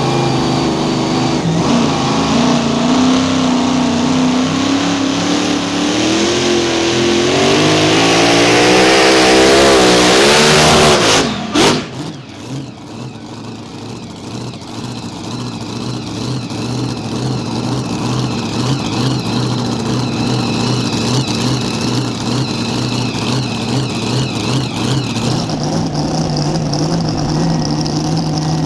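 Mini Rod pulling tractor's engine running at high revs under load, its pitch climbing and wavering for about eleven seconds, then dropping off suddenly; after that the engine runs on at a lower, steadier note.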